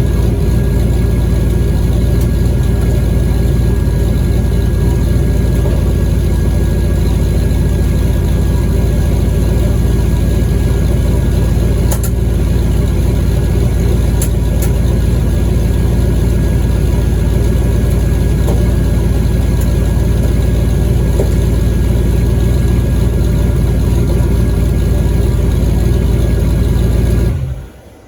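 Car engine idling steadily with the freshly installed TH400 automatic transmission put in gear, the driven wheels spinning up on jack stands. The engine sound stops abruptly near the end.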